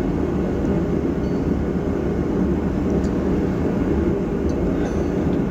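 Steady low drone of running machinery with a few faint light ticks.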